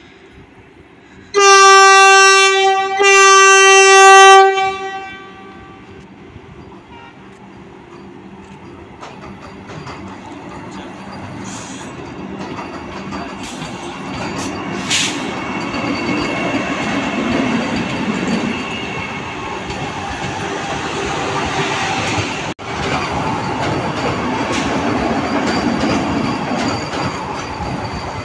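Vande Bharat electric trainset sounding its horn in two blasts, each about a second and a half long. Then the rumble and clatter of its wheels on the track grows louder and stays loud as the train comes through.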